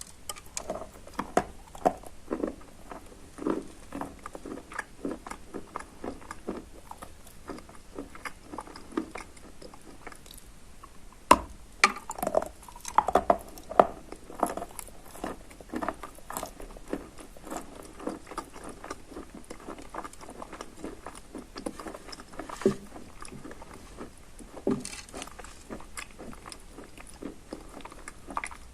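Close-up biting and chewing of soaked Barsuk chalk with crumbs of Lazurit chalk added: a wet crunch, with many short crisp crunches throughout. A sharp bite comes about eleven seconds in, followed by a run of louder crunches.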